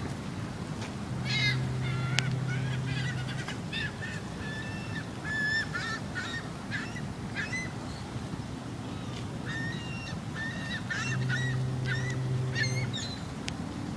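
Gulls calling again and again, a string of short, harsh cries, with a low steady hum underneath twice, each time for about two seconds.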